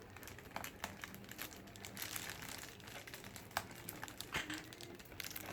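A parrot rustling and crinkling a delivery bag, irregular small crackles as it pokes and pulls at the packaging.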